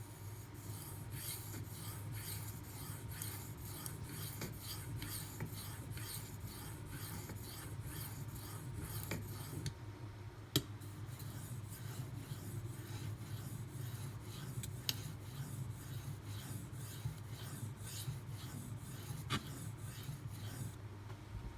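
D2 steel knife blade stroked back and forth across a Shapton Pro 5000-grit whetstone, an even rhythmic scraping of about two passes a second, with a short pause about ten seconds in. A few sharp clicks sound among the strokes: the crackle heard on the passes, which the sharpener puts down to something on the stone or on the knife edge.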